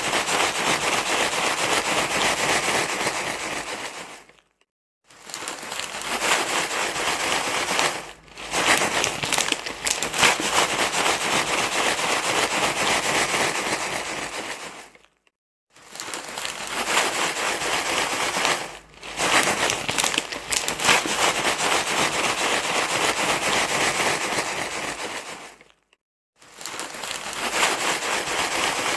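Dense crackly rustling and crinkling, like something being crumpled. It stops briefly three times, with shorter dips in between.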